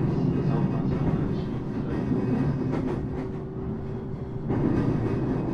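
Low rumble inside a train carriage as it runs on the rails. A faint steady hum joins about three seconds in and stops about a second and a half later.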